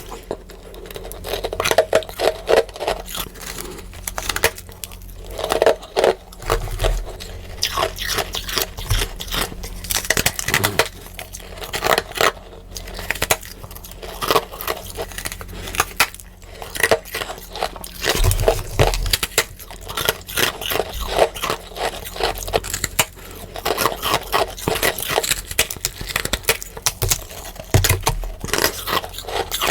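Freezer frost being bitten and chewed: a dense, continuous run of crisp crunches and crackles, played back sped up.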